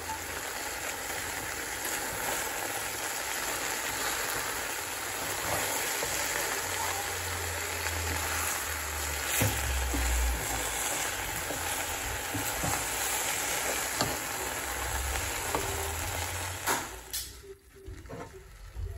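Seasoned boneless chicken pieces frying in hot oil in a metal pan: a steady sizzle, with a few clicks of a spatula stirring them. The sizzle falls away near the end as the chicken is taken out of the pan.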